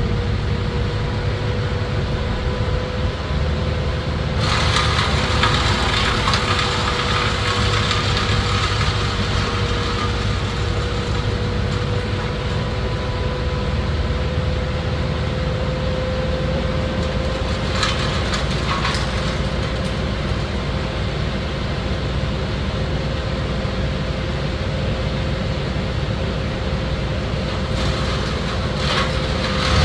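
Engine of tree-cutting machinery running steadily, with one held tone that slowly creeps up in pitch. A rougher, rasping layer joins it from about four seconds in for several seconds, with brief bursts again later.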